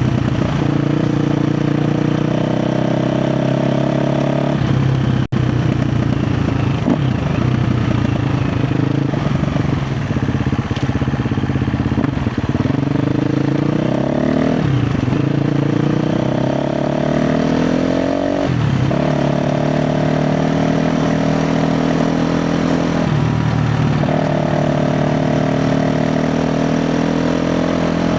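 KTM 350 XC-F's single-cylinder four-stroke engine working on a trail ride, its pitch rising and falling with the throttle. It holds steady for stretches, with several long rising revs in the middle, each ending in a sudden drop as the throttle closes.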